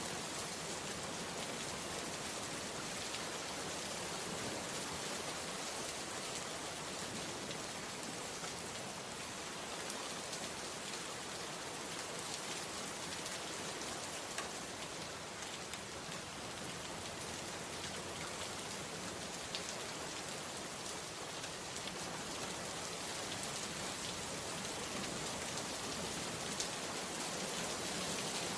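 Steady rain falling, an even hiss of rain on surfaces with scattered individual drops ticking now and then.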